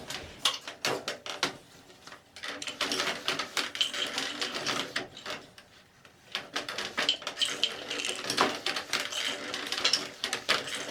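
Quick, irregular clicking and clattering of objects being handled, coming in clusters with a quieter gap about midway.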